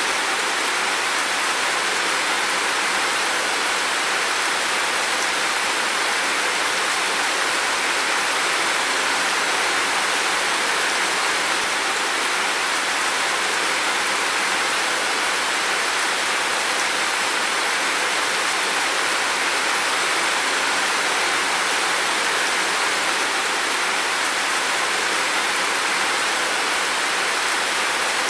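Heavy rain falling in a steady, dense hiss, unchanging throughout.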